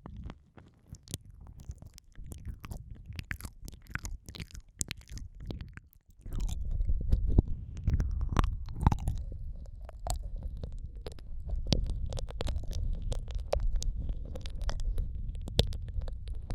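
Close-up wet mouth sounds for ear-eating ASMR: many small sticky clicks and smacks. About six seconds in, a low muffled rumble joins them and carries on.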